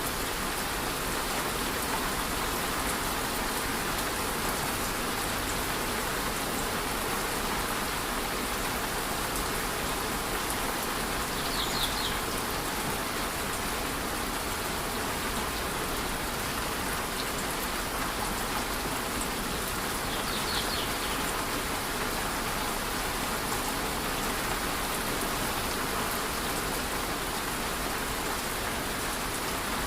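Waterfall and light rain making a steady, even rush of water. Two brief high chirps break through, about a third and two-thirds of the way in.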